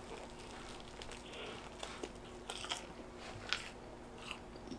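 Chewing a bite of fried pizza crust: faint, scattered crisp crunches about once a second.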